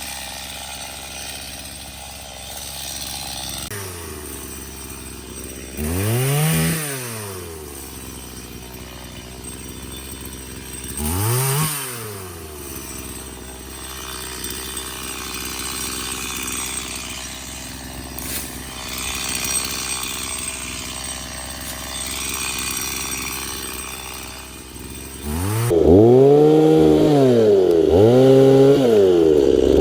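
Chainsaw running, revved up and back down twice, with lower running in between, then revved hard several times in quick succession near the end.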